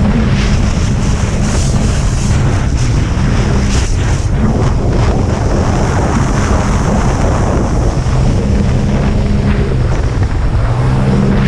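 Racing jet skis running at speed over water, with heavy wind buffeting the microphone.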